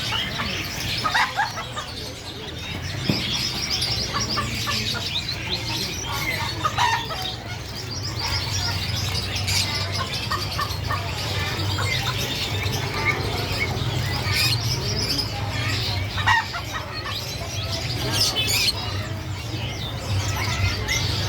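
Small red-billed finches chirping and twittering, many short calls overlapping throughout, over a steady low hum.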